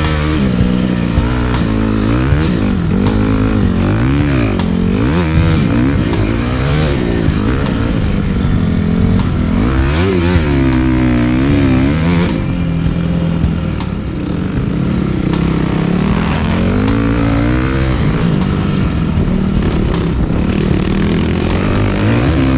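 Dirt bike engine revving up and easing off again and again while riding, its pitch repeatedly rising and falling, with background music with a steady beat underneath.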